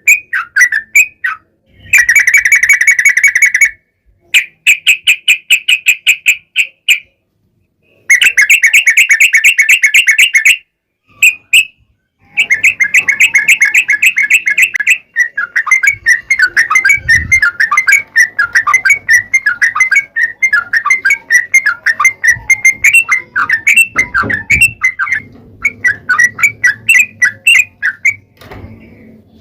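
Yellow-vented bulbul (trucuk) singing: several bursts of very rapid trilled notes a few seconds long, with short pauses between them, then a long stretch of quick, bubbly chattering phrases.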